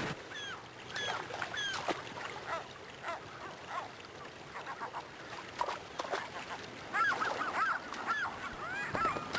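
Birds calling with short, arching honk-like calls, a few at a time at first, then several birds calling over one another from about seven seconds in.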